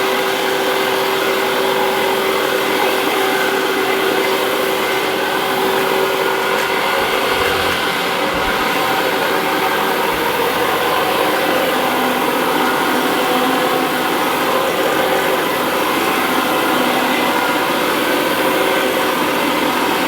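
Concrete floor grinder running steadily, its head of rubber chips and diamond-brazed plate grinding old glue off a concrete floor while the machine sucks the loosened glue away. It gives a dense, even machine noise with several steady tones.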